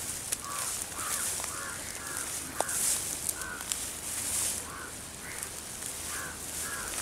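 A bird calling again and again in short calls, roughly two a second, over a steady high hiss.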